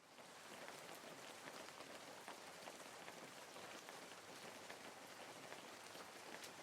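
Faint, steady rain patter with scattered small drop ticks.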